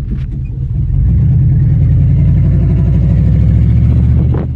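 Pickup truck engine revving hard and held at high revs during a burnout, the pedal held to the floor against the brake. It eases off briefly near the end.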